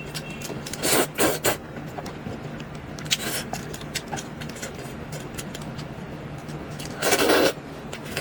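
Close-up eating sounds of sweet potato glass noodles: short noisy bursts of slurping about a second in, around three seconds in and near the end, amid small clicks and scrapes of chopsticks and bowl.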